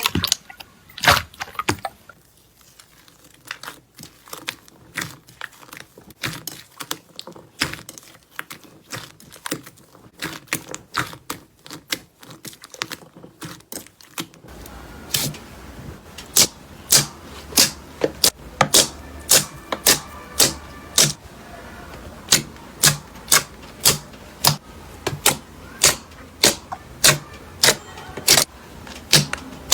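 Slime being squeezed and pressed by hand, making quick crackling clicks and pops. About halfway through it changes to a steadier run of sharper pops, roughly two a second, over a low steady hum.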